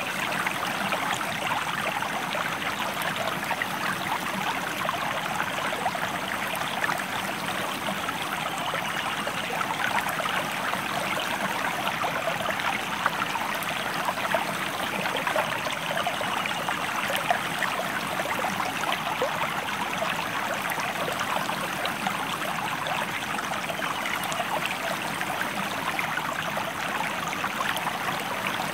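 Stream flowing: a steady, even rush of water with constant small babbling.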